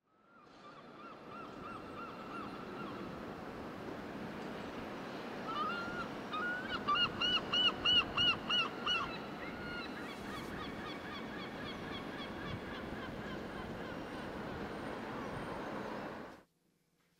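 A bird calling in a quick series of about eight rising-and-falling calls, over a steady outdoor background hiss. The background fades in at the start and cuts off suddenly near the end.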